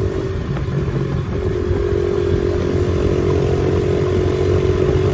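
Small single-cylinder four-stroke engine of a 2007 Honda CRF70 dirt bike running at a steady riding pace, with a low rumble of wind and ride noise on the microphone.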